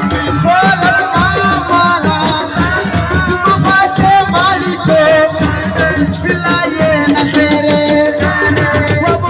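Live assiko band music: dense, driving percussion with shakers under a stepping melody line.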